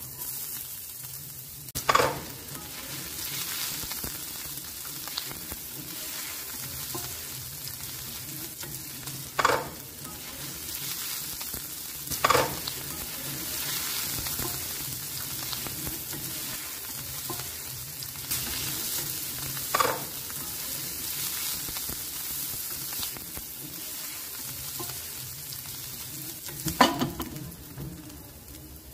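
Chopped garlic, ginger, green chillies and onion sizzling steadily in hot oil in a stainless steel frying pan as they are stirred with a wooden spatula. About five short, loud knocks of utensils on the pan stand out over the sizzle.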